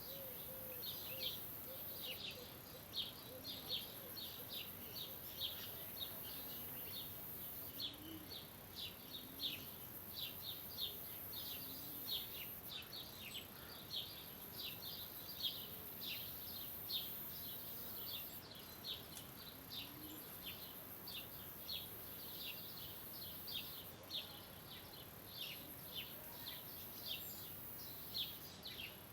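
Small birds chirping steadily: a dense run of short, high, downward-sliding chirps, several a second, over a faint outdoor hiss.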